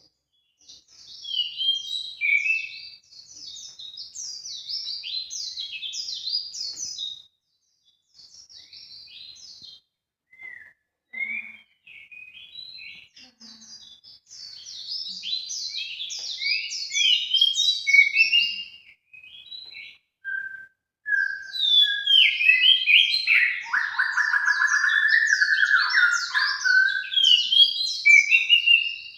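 Bird song played as a lure call: rapid, high chirping and twittering phrases in bursts with short gaps. From about two-thirds of the way in, a lower, fuller call joins the high chirps for several seconds.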